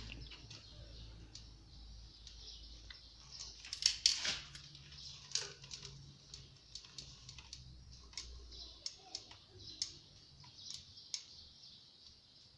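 Light clicks, taps and scrapes of hand work on a central-heating boiler's metal parts, with a few louder knocks about four seconds in, over a faint low hum.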